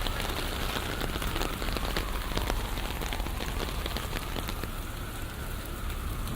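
Rain falling on a city street, with many separate drops ticking close by over a steady low city rumble. A faint distant tone slowly rises and falls through it.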